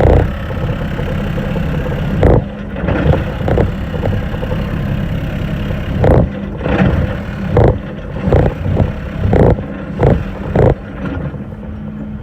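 An engine running steadily, with about a dozen loud, irregular knocks or thumps over it.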